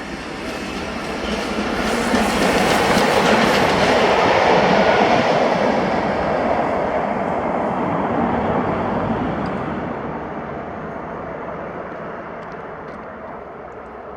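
A train headed by LMS Black Five steam locomotive 44871 passing, its wheels running on the rails; it grows louder over the first two seconds, stays loud for several seconds, then fades away.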